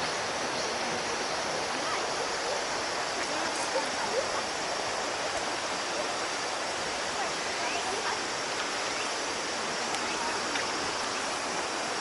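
Steady rush of water from a waterfall, an even hiss-like roar that holds at one level throughout.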